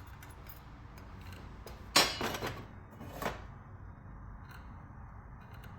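Two metallic clanks about a second apart as sheet metal is worked in a bench vise for folding; the first is loud and rings briefly, the second is quieter.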